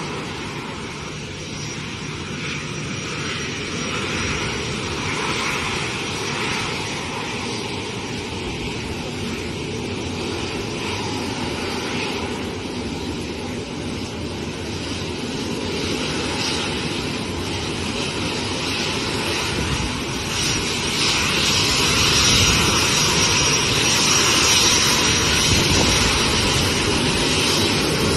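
Airplane engines running: a steady rushing noise with a thin high whine on top, growing louder about twenty seconds in.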